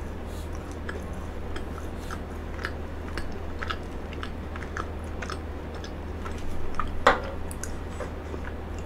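A person chewing frozen cheesecake close to the microphone, with small crisp crunching clicks of the icy cake throughout. There is one short, louder sound about seven seconds in.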